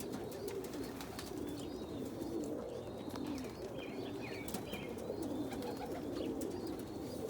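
A loft full of domestic pigeons cooing continuously, with scattered sharp clicks and a few short, higher chirping calls among them.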